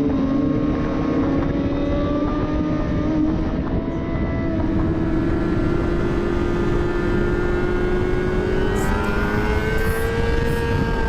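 Sport motorcycle with a straight-piped, muffler-deleted exhaust running at sustained revs while riding, its pitch climbing slowly and a little more near the end, over a steady rush of wind and road noise.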